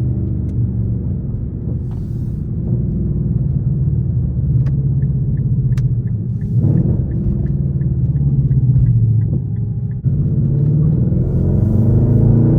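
Straight-piped Infiniti M56's 5.6-litre V8 exhaust drumming steadily while driving, with a light ticking about three times a second through the middle. Near the end the pitch rises as the engine pulls harder.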